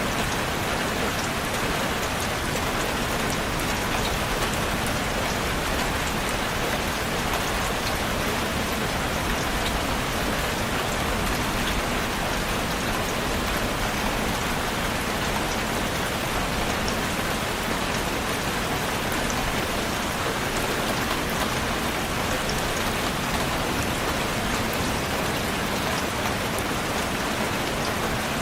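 Steady rain falling, an even hiss of many raindrops with individual drops ticking through it, unchanging in level.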